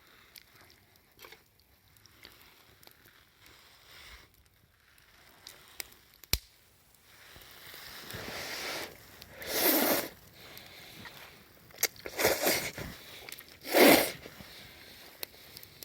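Close crunching noises: quiet with faint ticks at first, a sharp click about six seconds in, then four short loud crunches in the second half.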